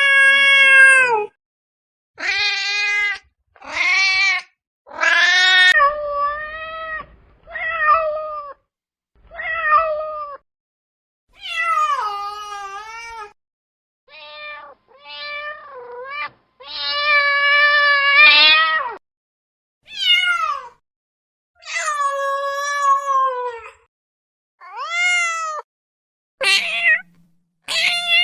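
A domestic cat meowing over and over, about sixteen separate meows with short silent gaps between them. Most are under a second, a few run to about two seconds, and many rise and then drop in pitch at the end.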